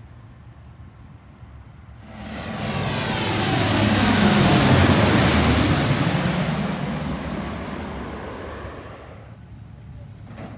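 Airplane passing close by, its engine noise swelling and fading with a high whine that falls in pitch as it goes past. The sound comes in suddenly about two seconds in and cuts off shortly before the end.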